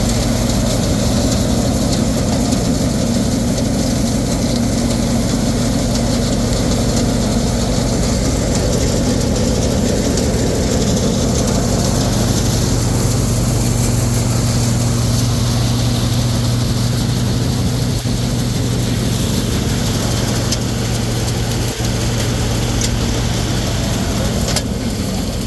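Combine harvester engine running steadily with a constant low hum.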